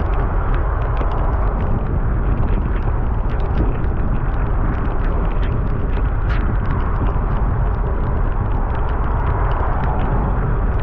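Steady wind rush and buffeting on the microphone with road noise from a bicycle ridden in the rain, scattered with many small ticks.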